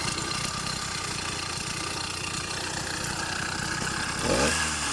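An F80 two-stroke bicycle engine kit on a motorized bicycle idling with a fast, even putter. About four seconds in it gives a short rev that rises in pitch, then drops back.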